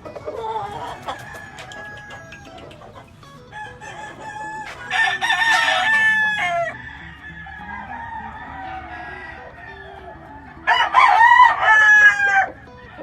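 Gamefowl roosters crowing, two long crows of about two seconds each, the second near the end, over quieter clucking.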